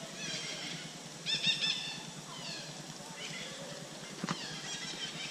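Birds giving short high-pitched chirping calls, with a quick run of four about a second and a half in and scattered single calls. A single sharp click comes a little past four seconds.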